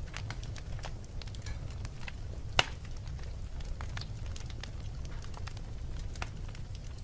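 Wood fire crackling in a fireplace: scattered small pops and snaps over a low steady rumble, with one sharp, louder pop about two and a half seconds in.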